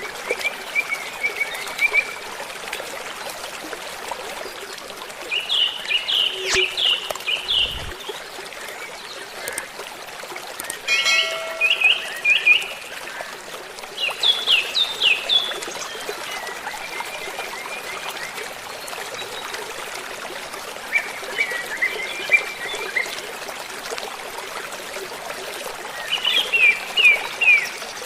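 Songbirds singing short phrases of quick, falling chirps, one phrase every few seconds, over the steady rush of running water.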